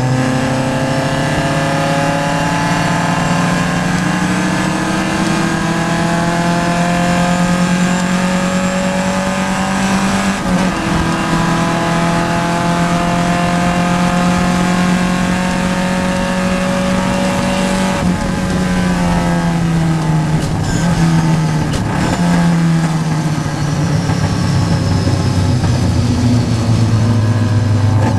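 Vintage Triumph race car engine heard from inside the car, pulling up through the revs with a gear change about ten seconds in. From about eighteen seconds in the engine note drops as the car slows, then holds low and picks up again near the end.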